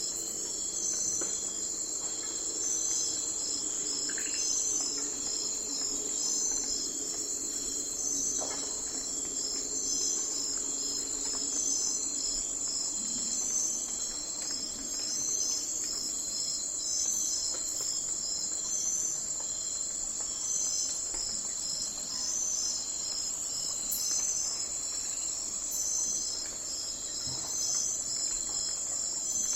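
Night forest ambience of crickets and other insects calling: a steady high trill, with a second insect chirping in regular, even pulses throughout.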